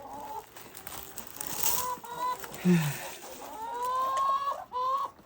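Hens clucking, several short calls and one longer drawn-out call about four seconds in.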